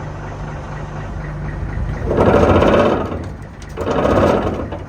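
The dump truck's bed shaker (vibrator) buzzes in two bursts of about a second each, about two seconds in and again near the end. Under it the truck's engine idles steadily.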